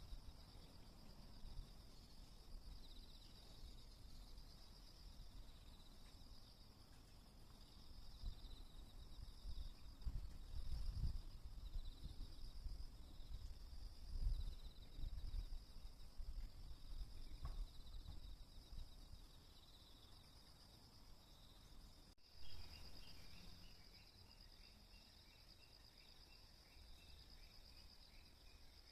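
Insects, crickets or similar, chirring steadily in a high pulsing trill, with a low rumble rising and falling in the middle. After a break about two-thirds of the way in, a faint quick pulsing call joins the chorus.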